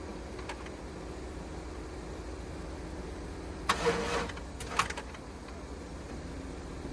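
A pickup truck's starter engaging in one brief burst about halfway through, followed by two sharp clicks, with the engine not catching: a hard-starting, no-start truck.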